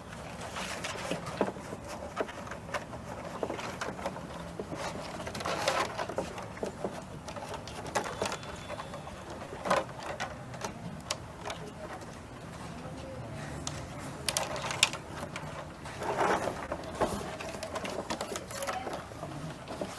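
Irregular clicks, taps and rustles of materials being handled, in a small room.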